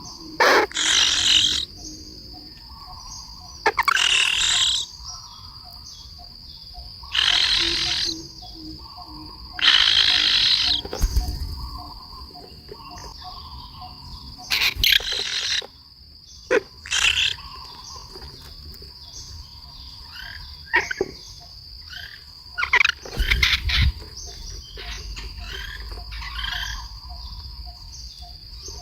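Birds calling: about ten harsh, raspy calls of up to a second each, spread unevenly, over a steady high insect drone and a faint run of evenly spaced pulses.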